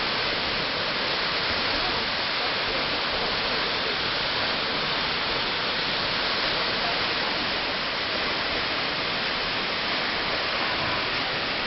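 Steady rush of water from Bridal Veil Falls, a tall plunge waterfall, falling into its pool: an even hiss that does not change in level.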